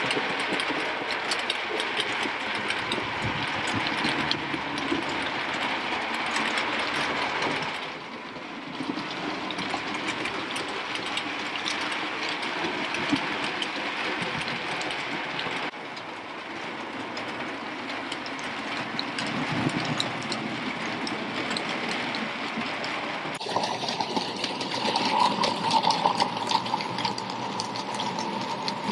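Model railway trains running on track: small locomotive motors and wheels clicking over the rail joints. The sound changes abruptly three times as one running scene cuts to the next. After the last change a steady tone sits over the running.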